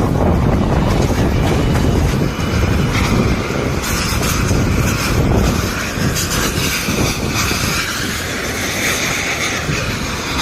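Typhoon-force wind blowing hard in gusts, with a deep rumble as it buffets the microphone.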